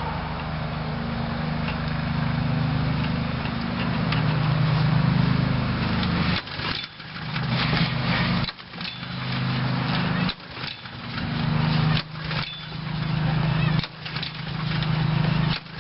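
Briggs & Stratton single-cylinder mower engine running briefly on the last residual fuel, then a string of about six recoil pull-starts about every two seconds, the engine cranking with a rising whirr each time but not catching: the fuel system is being run dry.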